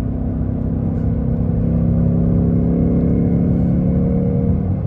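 2024 Ford Mustang GT's 5.0-litre Coyote V8 through its active exhaust, pulling steadily under load and easing off near the end.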